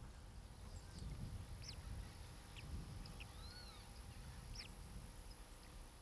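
Faint outdoor ambience of scattered short, high bird chirps, about five over several seconds, over a low rumble.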